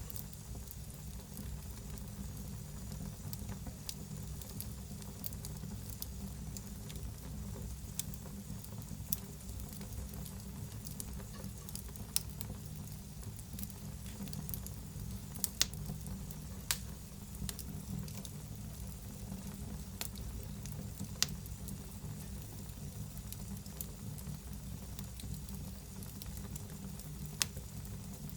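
Wood fire burning in a fireplace: a steady low rumble and faint hiss, with scattered crackles and a few louder sharp pops.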